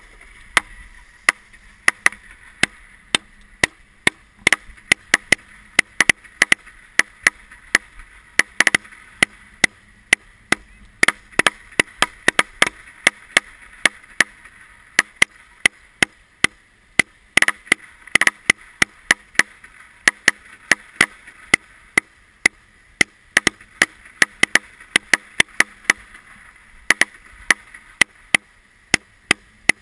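Fireworks going off: a long, irregular string of sharp cracks, several a second.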